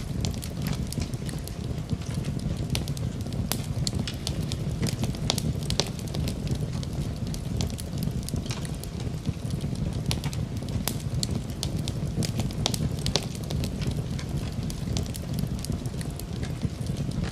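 Fire burning in a fireplace: a steady low rumble of the flames with frequent irregular sharp crackles and pops.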